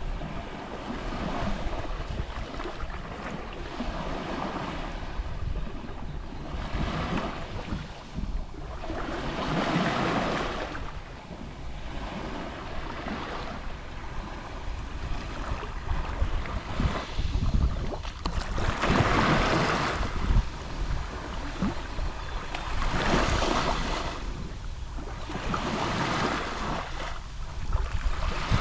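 Gentle Mediterranean Sea waves lapping on the shore: a steady wash of water that swells into louder breaks every few seconds.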